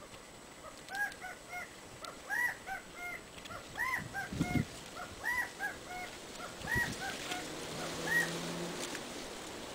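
An animal, most likely a bird, calling over and over: a run of short, arched, pitched notes in irregular groups of two or three that stops about a second before the end. A few low thumps of wind on the microphone come in between.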